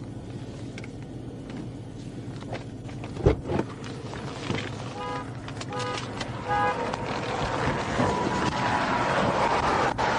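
A vehicle running, with short electronic beeps repeating about twice a second around the middle and a couple of knocks a little after 3 s. The noise builds over the last few seconds, with a steady tone through it.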